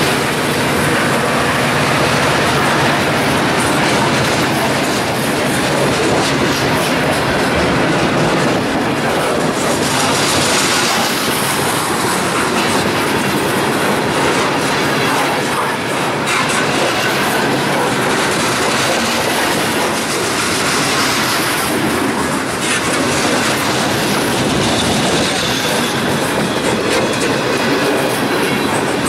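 Freight train of tank cars and covered hoppers rolling past at close range: a loud, steady rumble and rattle of the cars, with wheels clacking over rail joints. A few brief high-pitched wheel squeals rise over it, around ten seconds in and again near the end.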